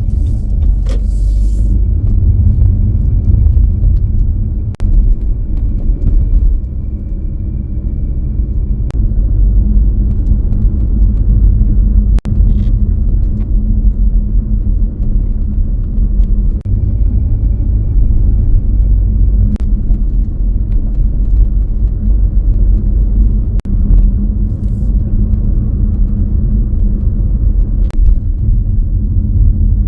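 A car driving along a road: steady low engine and road rumble, with a few sharp clicks and knocks now and then.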